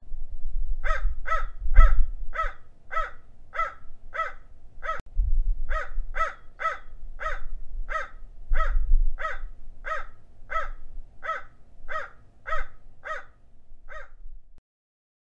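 Crow cawing: a long run of short, evenly spaced caws, about two a second, with a brief pause about five seconds in. A low rumble runs underneath.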